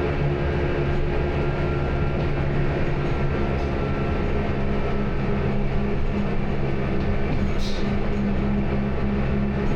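Train running steadily: a constant rumble with a steady hum of several tones, and one short hiss late on.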